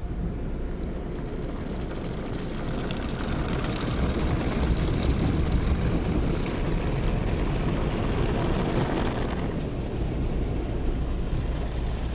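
Automatic car wash equipment running around the car, heard from inside the cabin: a steady rushing noise that swells about two seconds in and eases off around nine seconds.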